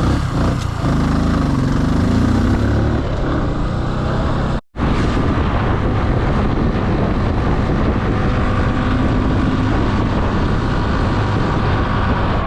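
Motorcycle engine pulling away, its pitch rising as it accelerates, then running at a steady road speed with a dense rush of riding noise. It cuts out for a moment about four and a half seconds in.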